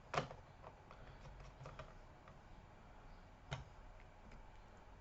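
Faint, scattered small clicks and ticks of a screwdriver driving the last two screws into a laptop's plastic bottom cover, with a sharper click just after the start and another about three and a half seconds in.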